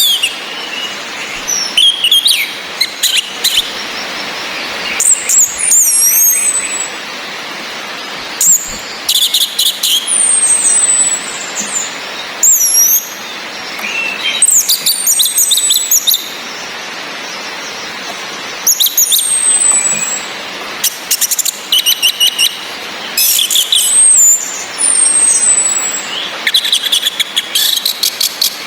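Orange-headed thrushes calling in repeated bursts: thin, high whistles that fall in pitch and quick chattering phrases, over a steady hiss of rain.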